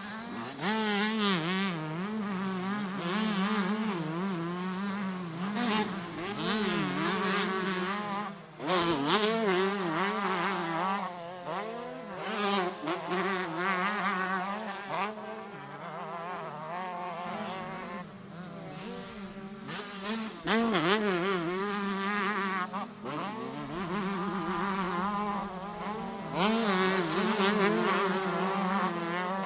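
Several 125cc two-stroke motocross bikes racing, engines revving hard with a buzzy note that climbs and drops again and again as riders open the throttle, shift gears and pass by.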